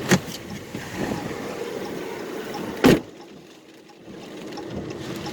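Vehicle door unlatched and opened with a couple of clicks, rain hissing in through the opening, then the door shut with a loud thump about three seconds in, after which the rain is muffled.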